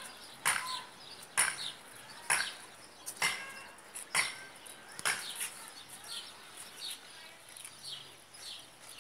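Bird calling: a series of short, sharp calls falling in pitch, about one a second for the first five seconds, then softer chirps.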